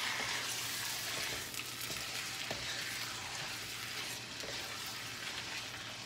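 Chicken thigh pieces sizzling steadily as they stir-fry in oil in a wok, with a wooden spatula scraping and knocking against the pan a few times as they are turned.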